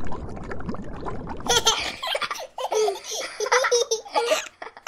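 Muffled underwater water noise, then from about a second and a half in, a young child laughing and giggling in several short bursts, louder than the water.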